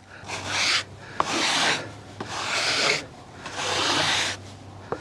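Heavy black walnut slab scraping as it is slid across wood, in four rasping pushes of under a second each, with a sharp knock just after the first.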